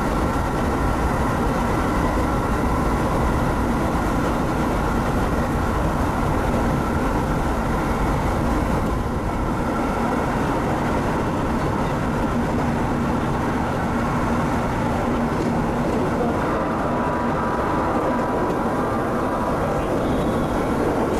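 Keisei commuter electric train running at steady speed, heard from the driver's cab: a continuous rumble of the wheels on the rails with a steady hum over it.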